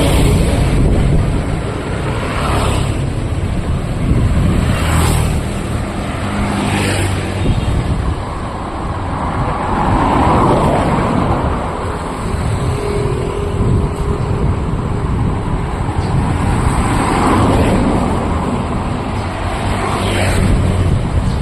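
Street traffic: vehicles passing one after another, each swelling up and fading over a steady low rumble.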